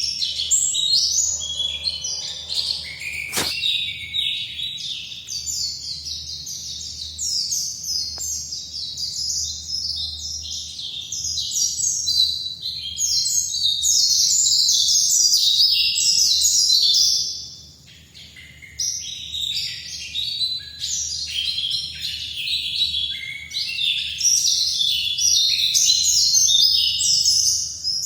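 A pleci dakun white-eye singing a long, rapid twittering song of high chirps that pauses briefly about two-thirds of the way through. A single sharp click sounds a few seconds in.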